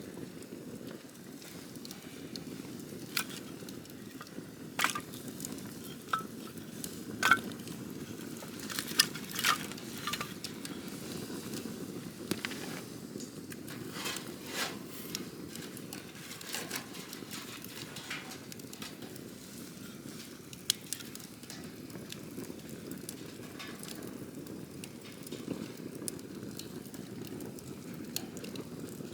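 Wood campfire burning: a steady low rush of flame with irregular sharp crackles and pops, most frequent in the first third, and one strong pop about two-thirds of the way through.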